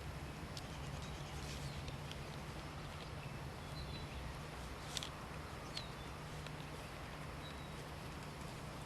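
Small birds giving scattered short chirps and brief high call notes over a steady low hum.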